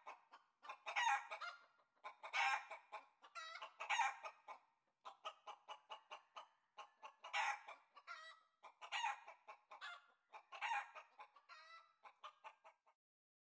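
Chickens clucking in a rapid run of short calls, in bursts about every second or so, falling silent near the end.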